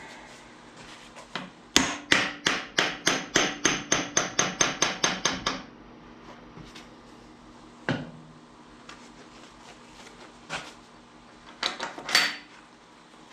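Hammer blows on steel, driving a pivot pin into the lined-up holes of an excavator ram mount: a quick run of about sixteen strikes, about four a second, then a few single blows.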